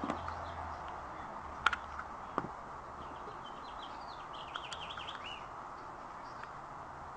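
Two sharp clicks, about a second and a half and two and a half seconds in, then a bird chirping in a quick run of high notes for a couple of seconds, over steady background noise.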